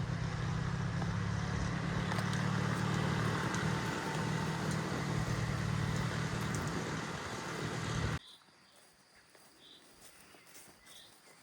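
A motor running steadily with a low hum, cutting off abruptly about eight seconds in, leaving a quiet background.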